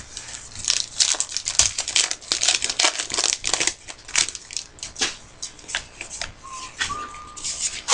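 Trading cards and pack wrappers being handled and flipped through: a quick, uneven run of paper rustles, crinkles and snaps.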